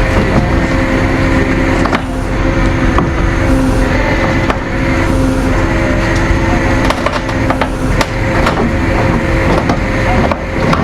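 A vehicle engine running steadily with a constant hum and low rumble, and a few sharp clicks or knocks in the second half.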